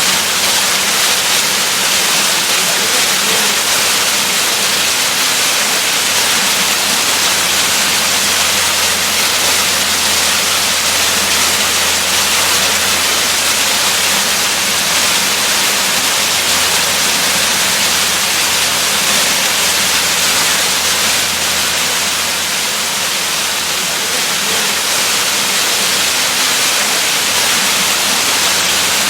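Waterfall: a steady, even rush of falling water, hiss-like and strongest in the highs, with no change throughout.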